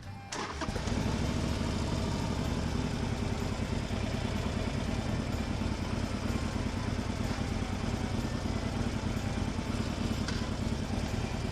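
Harley-Davidson Forty-Eight's air-cooled V-twin running steadily through a Dr. Jekyll & Mr. Hyde aftermarket exhaust, with an even, pulsing beat. It starts abruptly about half a second in.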